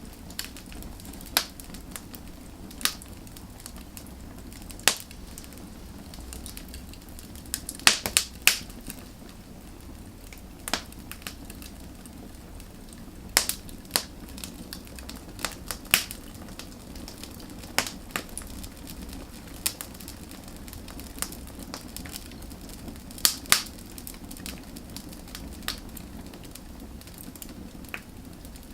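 Wood fire burning with irregular sharp crackles and pops over a low steady rush of flame, a few pops clustered in quick bursts.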